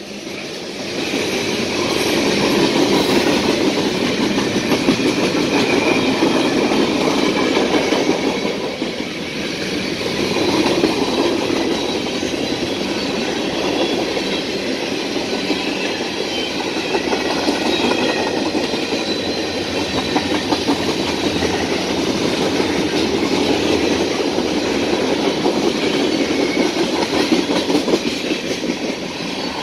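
Freight train of tank cars rolling past, a steady rumble and clatter of steel wheels on rail.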